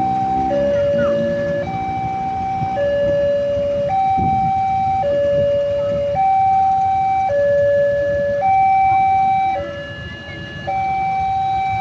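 Two-tone hi-lo siren, switching steadily between a higher and a lower pitch about once a second, over a low rumble.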